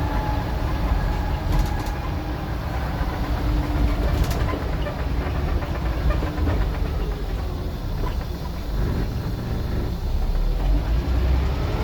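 Scania N94UD OmniDecka double-decker bus engine running while the bus is under way, a steady low rumble, with the revs beginning to climb near the end.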